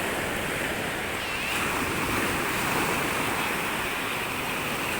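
Sea waves washing onto a sandy beach in a steady wash, with wind buffeting the microphone.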